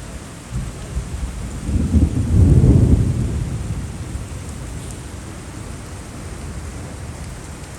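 A roll of thunder over steady rain: a low rumble swells about two seconds in, peaks, then dies away slowly.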